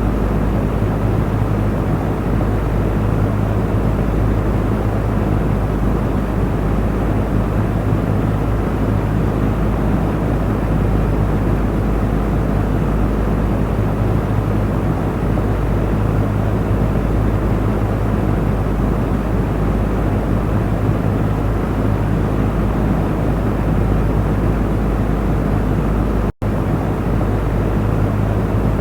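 Electric fan running steadily: an even rush of moving air with a low, constant motor hum underneath. The sound cuts out for an instant about 26 seconds in, then carries on unchanged.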